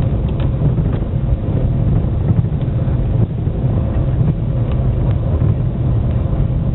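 Car driving up a snowy, icy hill under acceleration, heard from inside the cabin: a steady low rumble of engine and tyres on the road, with a few faint ticks.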